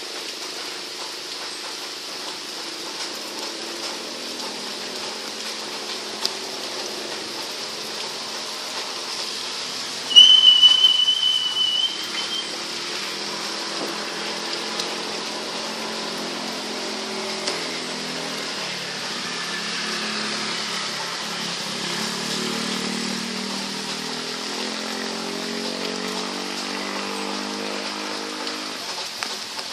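Steady tropical rain falling, with an engine droning underneath and rising and falling in pitch, louder in the second half. About ten seconds in, a loud high whistle is held for about two seconds and is the loudest sound.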